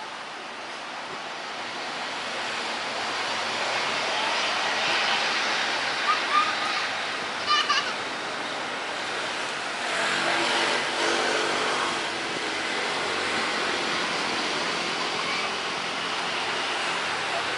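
Road traffic passing, a steady rushing noise that swells twice, with a few short high chirps in the middle.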